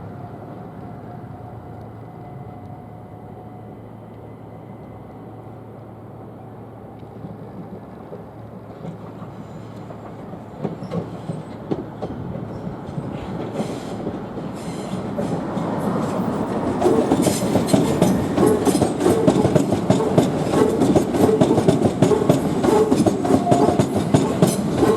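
A 12-car Southern Class 377 electric multiple unit moving off from a red signal and rolling past, faint at first, then growing louder from about ten seconds in. By the last third its wheels clatter rapidly over rail joints and points.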